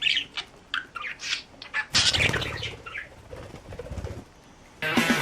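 A bird chirping in quick short calls, then a burst of wing flapping about two seconds in as it takes off. Music starts near the end.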